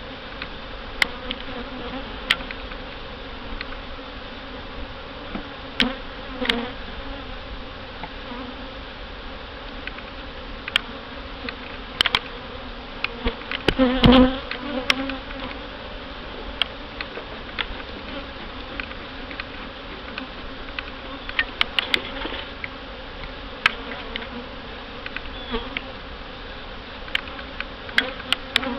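Honey bees buzzing steadily in a dense swarm around an open hive, with scattered sharp clicks and a louder knock about halfway through.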